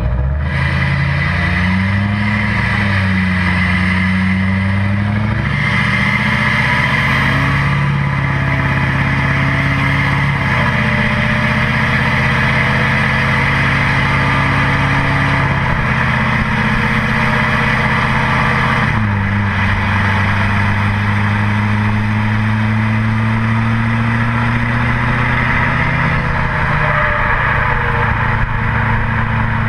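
2008 LMM Duramax 6.6-litre turbodiesel V8 running through a 4-inch straight pipe with the cat, DPF and muffler removed, exhaust dumped over the rear axle, while the truck drives. The engine pitch climbs and falls several times, dropping sharply about 19 seconds in and again near 27 seconds.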